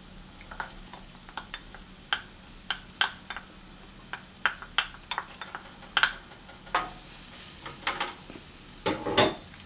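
Minced garlic frying in melted butter in a nonstick frying pan: a steady sizzle. Over it come scattered sharp clicks and crackles as a wooden spoon scrapes the garlic from its ramekin and stirs it in the pan, with a louder clatter near the end.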